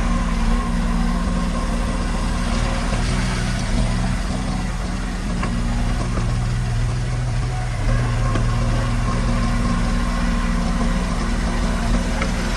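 Heavy construction machine's diesel engine running steadily, its low hum easing for a few seconds in the middle and coming back strongly about eight seconds in.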